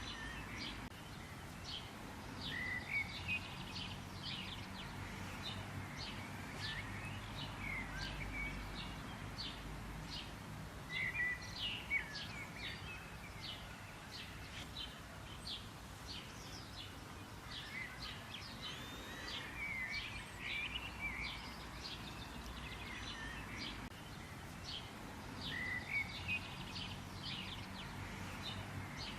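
Several wild birds chirping and calling, a dense run of short high chirps with a few warbling phrases mixed in, over a steady low background noise.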